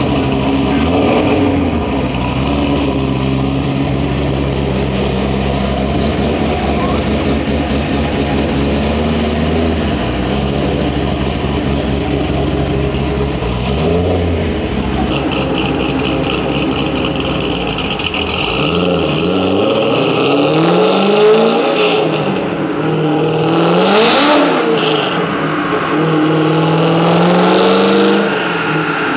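2005 C6 Corvette's LS2 V8, fitted with an aftermarket cam, idling with an even choppy pulse and a short blip of the throttle about halfway through. In the last third it is revved several times, the pitch rising and falling with each rev.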